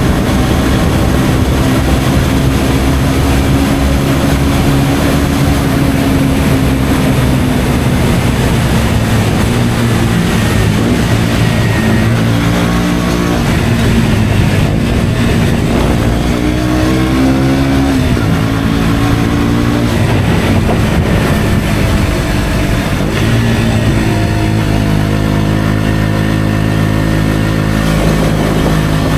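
KTM Duke 125's single-cylinder engine running through an Akrapovic exhaust while riding. The pitch holds steady at first, rises and falls several times around the middle as the engine revs through gear changes, then settles into a steady run again.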